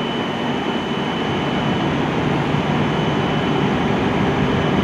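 Steady hum and hiss of a stationary E7-series Shinkansen train and the platform around it, with a thin high steady tone that fades out about two and a half seconds in.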